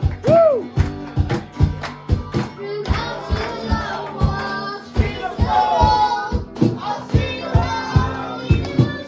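Worship music: singing voices over a band with a steady drum beat.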